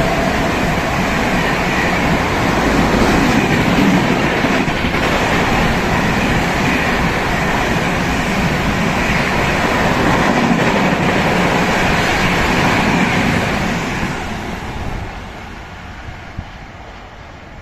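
Express train running through a station at speed without stopping: a loud, steady rush of wheels on rail and moving air that fades away about fifteen seconds in as the train clears the platform.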